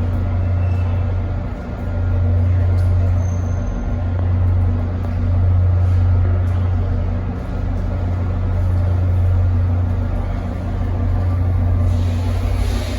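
Train locomotive idling with a steady low hum; a hiss comes in near the end.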